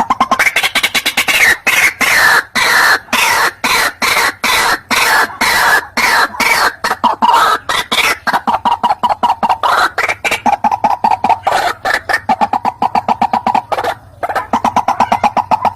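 White-breasted waterhen (ruak-ruak) calling: a long, fast run of short repeated notes, several a second, with a brief break near the end.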